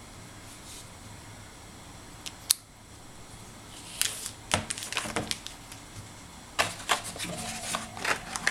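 Packaging of a phone being handled during an unboxing: one sharp click a little after two seconds, then two bouts of quick clicks and rustles, the second starting near the middle and running to the end.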